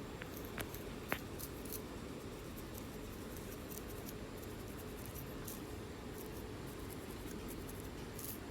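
Faint, irregular scratching and scraping at a flaky scalp as large dandruff flakes are picked loose, with two sharper clicks about a second in, over a steady low background hum.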